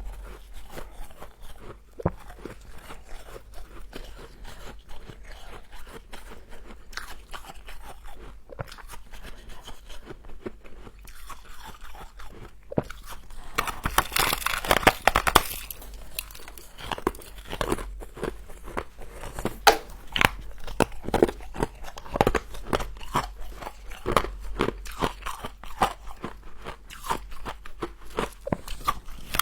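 A person biting and chewing frost close to the microphone: crisp crunches bite after bite, with a dense run of crunching about 14 seconds in, then steady chewing crunches.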